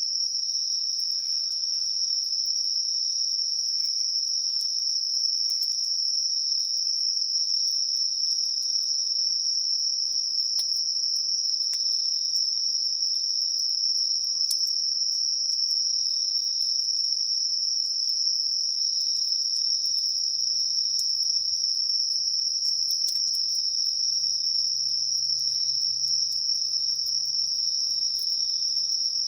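Evening chorus of crickets and other singing insects: a steady, unbroken high-pitched trilling.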